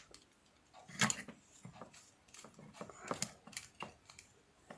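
A few faint clicks and taps of small plastic parts being handled: the opened electric lint remover's casing, circuit board and switch knob, the strongest click about a second in.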